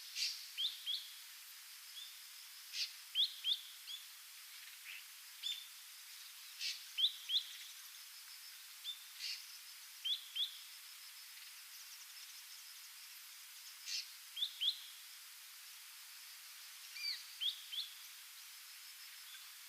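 Ashy drongo calling: short, high notes, mostly in quick pairs and threes, with pauses of a second or more between groups.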